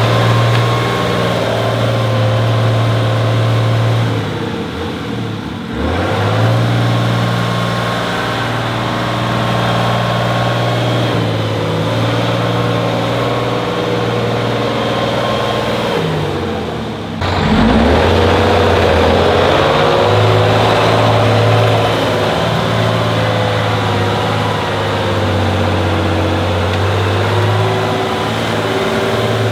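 Heavy off-road truck's diesel engine running hard under load. The revs dip and sweep back up twice.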